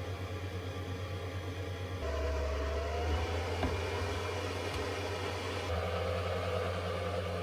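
Steady electric hum of a mains appliance running off a portable power station. It steps up louder about two seconds in, with a faint wavering whine above it.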